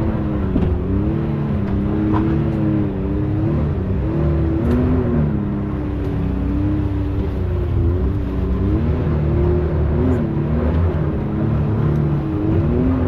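Can-Am X3 side-by-side's three-cylinder turbo engine worked up and down on the throttle as it crawls up a rocky climb, its pitch rising and falling every second or so, with a few light knocks.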